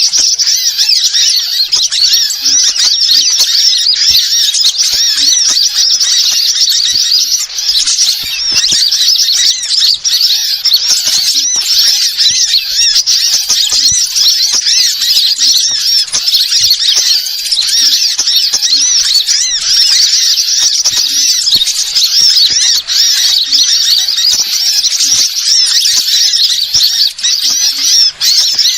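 Dense, unbroken high-pitched chirping and twittering of many small birds, a bird-lure call recording (suara pikat) played loud.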